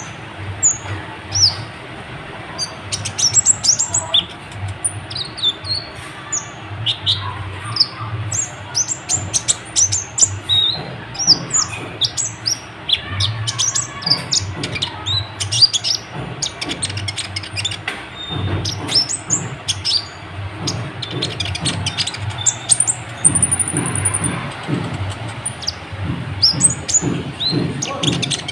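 Kolibri ninja sunbird singing a fast, unbroken stream of short, high, sharp chirps and trills.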